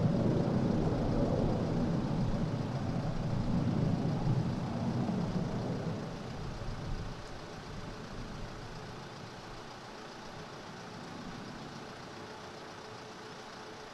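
Jet aircraft engines rumbling, a steady low roar that fades after about six seconds as the aircraft pass by.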